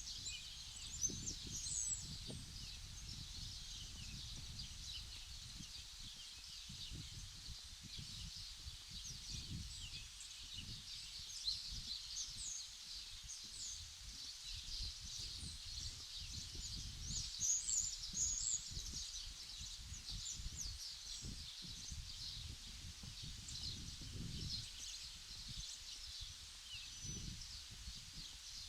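Many small birds chirping and twittering, with louder bursts of calls about two seconds in and again past the middle, over a low, uneven rumble.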